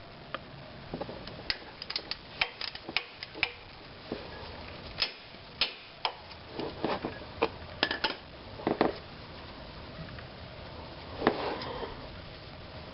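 Hand tools and metal parts clicking and clinking irregularly during work on the accessory drive, with a louder clattering knock about eleven seconds in.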